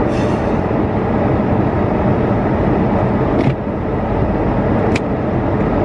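Chevrolet Camaro running, heard from inside the cabin as a steady loud rush with a low hum. A sharp click comes about three and a half seconds in, where the level drops a little, and another comes near five seconds.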